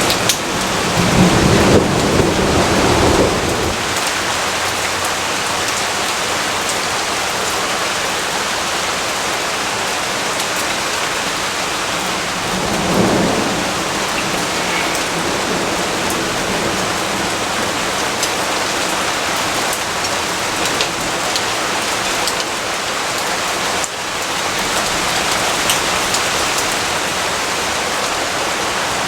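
Steady rainfall hissing, with a roll of thunder rumbling for a couple of seconds about a second in and a shorter, fainter rumble about halfway through.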